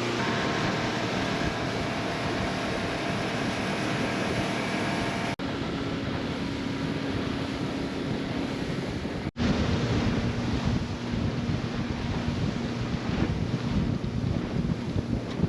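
Wind buffeting the microphone on a moving motorboat, over the steady drone of its engine and water rushing past. The sound cuts out abruptly twice for an instant, and is gustier after the second break.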